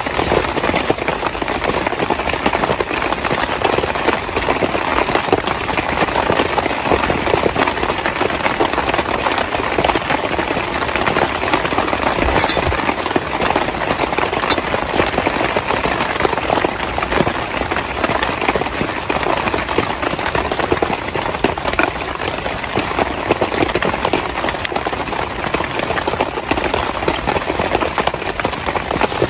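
Heavy rain falling steadily: a dense, even hiss of many drops that holds the same level throughout.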